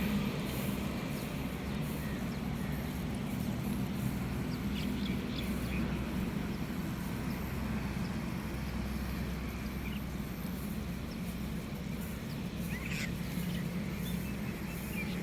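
Small birds giving a few short, high chirps scattered through the stretch, a cluster about five seconds in and again near ten, thirteen and fifteen seconds, over a steady low mechanical hum.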